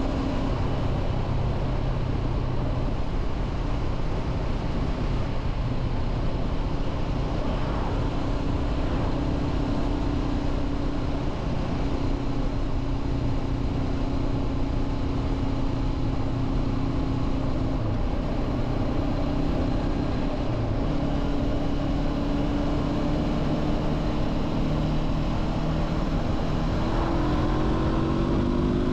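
Honda CB500F's parallel-twin engine running at a steady cruise, with wind rushing over the microphone; the engine note rises near the end as the bike speeds up.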